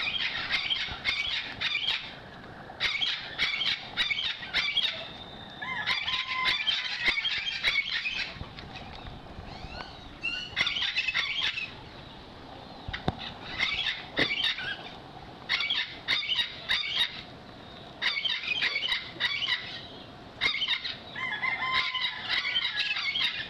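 Birds chattering and squawking in about eight shrill bursts of rapid calls, each lasting one to three seconds with short pauses between them.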